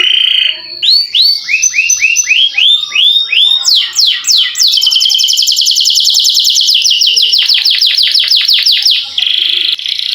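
Domestic canary singing a loud, unbroken song: a run of rising swooping notes, then a long rapid roll of repeated falling notes held for several seconds, and a buzzier steady phrase near the end.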